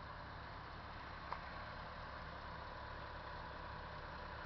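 A vehicle engine idling steadily and quietly, with one faint click about a second in.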